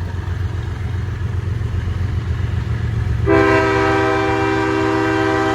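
A train rumbles steadily past. About three seconds in, a locomotive air horn sounds one loud, held multi-note chord lasting over two seconds.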